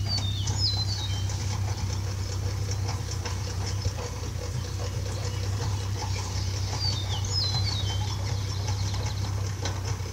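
Suzuki Samurai's four-cylinder engine running with a steady low hum, pulling the pen. A bird sings a short stepped phrase of high notes twice, about half a second in and again about seven seconds in.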